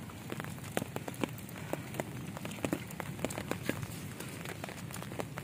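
Rain falling steadily, with many sharp, irregular ticks of drops striking hard surfaces close by.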